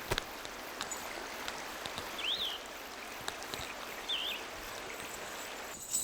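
Running stream water, a steady rush, with a bird giving a short rising-and-falling call twice.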